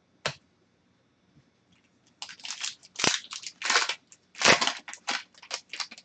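Wrapper of a trading card pack crinkling and tearing as it is opened: one click, then from about two seconds in a quick, irregular run of crackling rustles.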